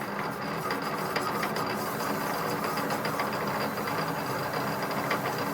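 A machine running steadily: an even mechanical noise with a low hum under it.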